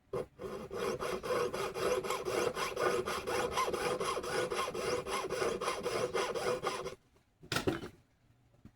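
Hand tool rasping against metal in rapid, even back-and-forth strokes, the way a jeweler files or saws a piece of silver or gold. It stops about seven seconds in, followed by one more short stroke.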